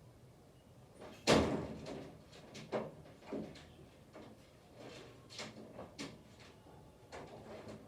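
A loud sudden scrape or bang about a second in that fades out quickly, followed by several shorter sharp knocks spread through the rest.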